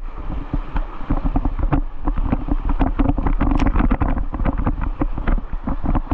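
Rushing whitewater on a river rapid, splashing with many irregular crackles, over a steady low rumble of wind buffeting the microphone.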